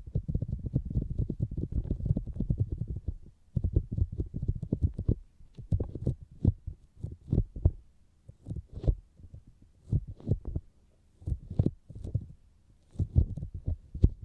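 Fingers tapping on the outer ear of a binaural microphone: muffled low thuds, first in quick flurries, then as sparser single taps with short gaps, and quick again near the end.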